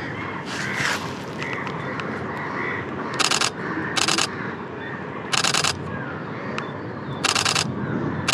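A camera shutter firing in four short rapid bursts, continuous shooting at birds. Faint bird chirps sound in the first few seconds.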